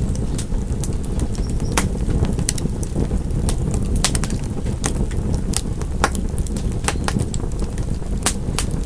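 Wood fire crackling in a fireplace: a steady low roar of flames with sharp, irregular pops and snaps, several a second.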